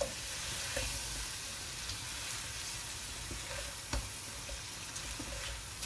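Shrimp sizzling in butter and oyster sauce in a pot while being stirred with a spatula, with a few knocks of the spatula against the pot, the loudest about four seconds in.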